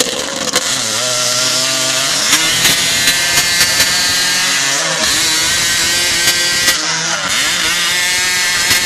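Several hot-saw chainsaws, driven by dirt-bike engines, running at full throttle and cutting through logs in a race. Their engine pitches rise and fall as the saws bog into the wood and rev free, and short clicks come in between.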